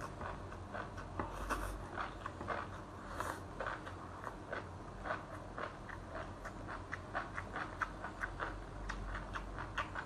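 Close-miked chewing of seaweed salad: a quick, irregular run of small wet crunching clicks, with a few short slurps as strands are drawn into the mouth.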